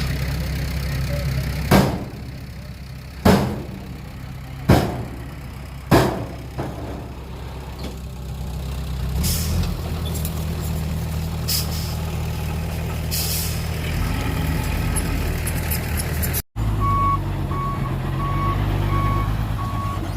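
Heavy diesel engines of a bulldozer and dump truck running steadily, with four loud bangs in the first six seconds and a few short hisses later. After a brief cut, a truck's reversing alarm beeps at an even pace.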